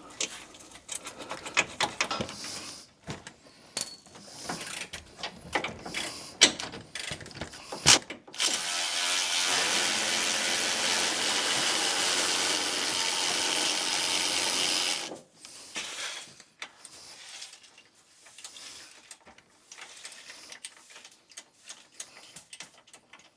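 Scattered clicks and knocks of hand tools on metal parts. About eight seconds in, a power tool runs steadily for about seven seconds and cuts off suddenly, followed by more light clicking.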